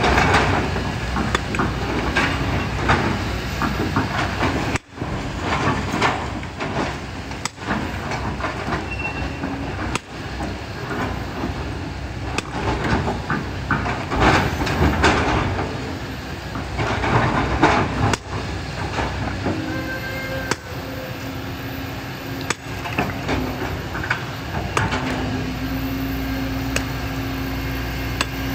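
Kobelco excavator's diesel engine running steadily under load, with repeated bursts of clattering and scraping as the bucket works through sand, gravel and rock. A steady low drone comes in near the end.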